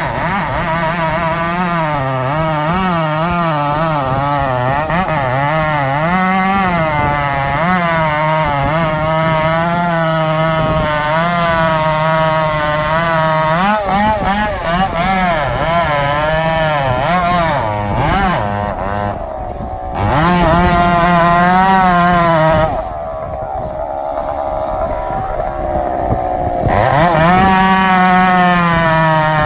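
Two-stroke chainsaw running at high revs, its pitch wavering up and down as it cuts under load. It slows for a few seconds past the middle, then revs back up near the end.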